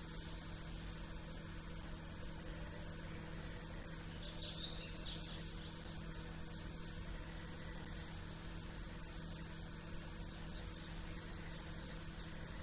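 Small songbirds chirping faintly, a short burst of high chirps about four seconds in and a few weaker ones later, over a steady low hum.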